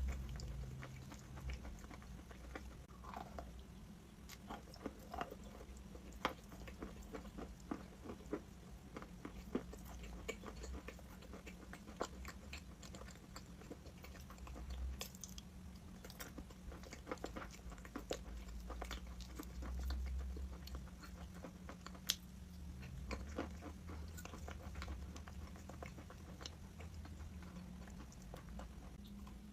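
A person biting and chewing crunchy chalk, giving many small sharp crunches and crackles at an irregular pace.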